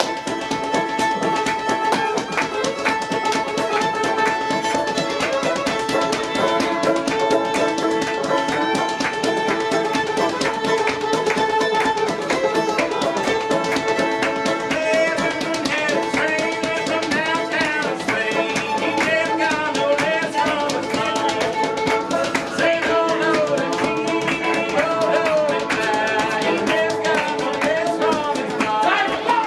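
Live old-time string band playing a tune: a fiddle carries the melody with sliding notes over steady, fast picked strings.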